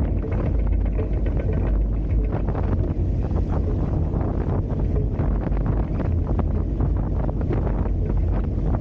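Wind buffeting the microphone as a low steady rumble, with the rushing hiss and splash of water along the hulls of a Hobie Tiger F18 catamaran under sail.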